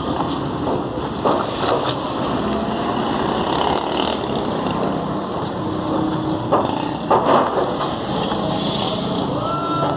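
Workers cutting steel rebar: a few short knocks over a steady rushing noise, with a brief thin whine near the end.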